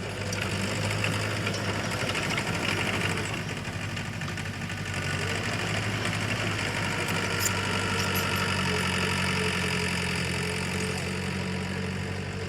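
Heavy construction machine's diesel engine running steadily, with a small shift in its pitch about eight and a half seconds in.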